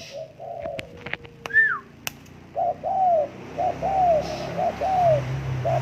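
Spotted dove cooing: a series of low, repeated coo phrases, each a short note and then a longer arching note, starting about halfway in. A few sharp clicks come before it.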